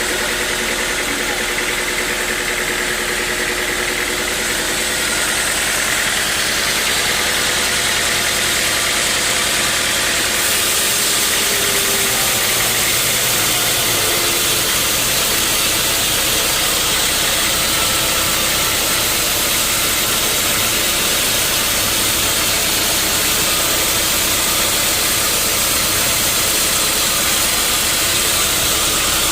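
Sawmill saw and its engine running steadily, with a dense hiss over the engine hum, getting a little louder about five seconds in.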